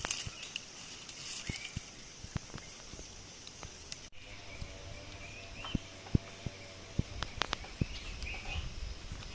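Outdoor jungle ambience: short bird chirps every few seconds over scattered clicks and crackles, with a sudden break about four seconds in.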